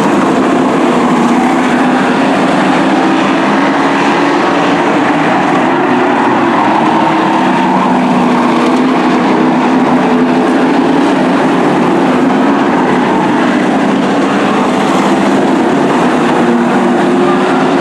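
Race trucks running laps on a short oval, several engines at speed together in a loud steady drone.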